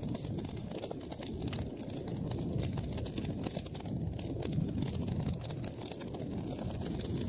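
Wood fire burning in a fireplace: a steady low rumble of flames with many small, quick crackles and pops.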